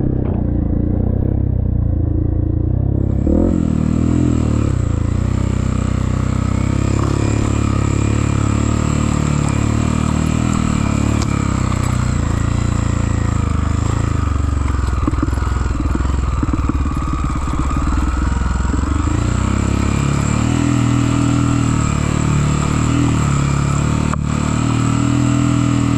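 Trail motorcycle engine running while under way, its pitch wavering up and down around the middle.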